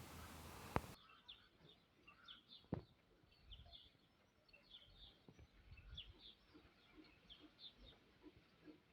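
Faint, scattered bird chirps over near silence, with a single soft tap about three seconds in.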